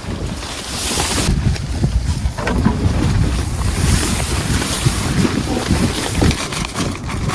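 Strong wind gusting over the microphone, a loud, uneven buffeting that rises and falls.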